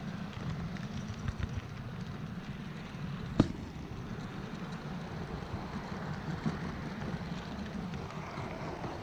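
OO gauge model train wagon rolling round the track, picked up by a camera riding on it: a steady low rumble of wheels on rail, with a few light ticks and one sharp click about three and a half seconds in.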